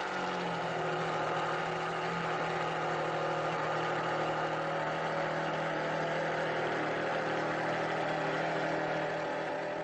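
A supercar engine idling steadily at an even pitch, fading out near the end.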